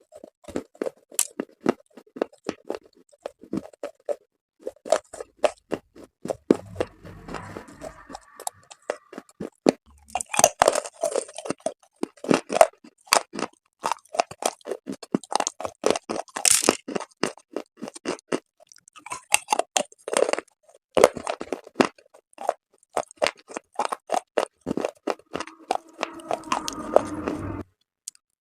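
Close-up crunching and chewing of hardened chalk paste: dense, irregular crackles and crunches of pieces breaking between the teeth, with a brief steady hum near the end.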